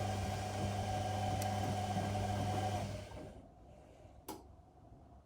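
Whirlpool Indiana 1400 washing machine's motor turning the drum during the wash with a steady hum, then stopping about three seconds in. A single sharp click follows a second later.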